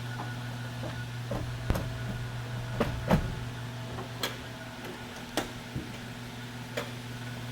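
A steady low mechanical hum with a scattering of sharp knocks and clicks at irregular intervals, the loudest about three seconds in.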